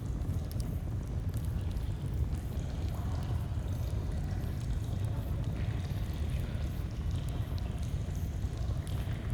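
Flowing stream with a crackling campfire: a steady low rush of water with scattered small, sharp crackles and pops from the fire.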